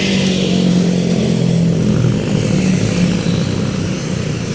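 An engine running steadily at constant speed, a low drone under a wash of noise.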